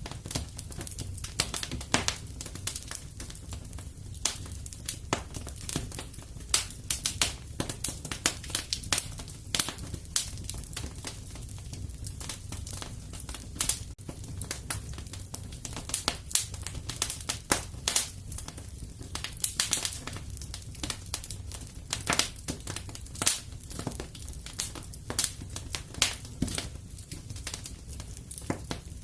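Wood fire burning in a fireplace: irregular crackles and pops, several a second, over a steady low rumble of flame.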